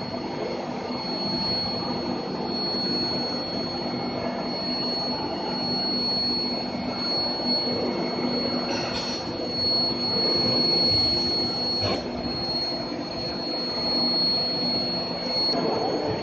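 Metal induction heating furnace running: a steady high-pitched whine over a continuous hum and noisy rush.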